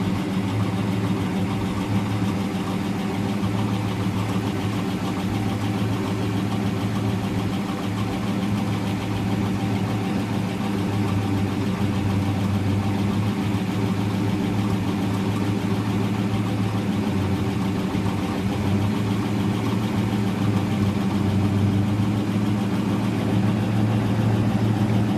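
A car engine running steadily with a low, even hum that changes little.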